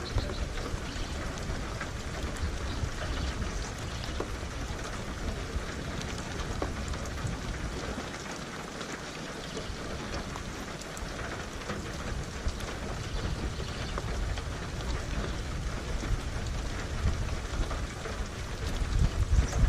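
Steady rain falling with a low rumble of thunder underneath. The rumble eases off about halfway through and swells again near the end.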